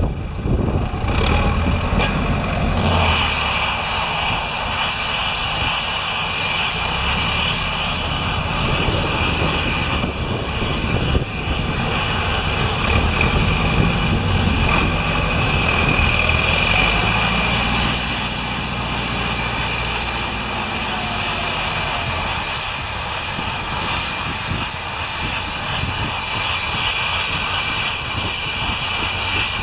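Tractor engine running continuously, its low note shifting up and down a little, over a steady hiss.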